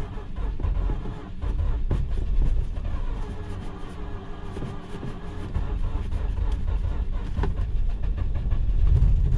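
Mazda RX-8's 13B Renesis two-rotor engine cranking on the starter with a fast, even pulsing, sputtering as it tries to catch but not running on its own. The battery is tiring, and the gas is held down, flooding the engine.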